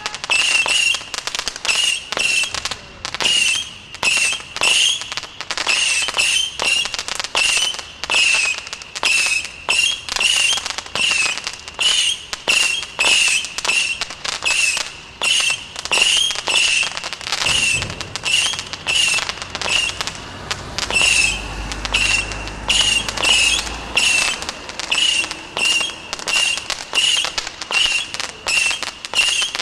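Stealth Fireworks 'Missile Assault' 150-shot firework cake firing rapid shots, about two a second. Each shot is a short wavering whistle followed by crackling.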